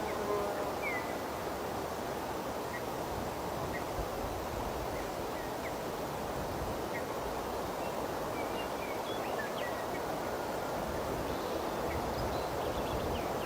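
Steady rushing background noise with faint, short high chirps scattered through it.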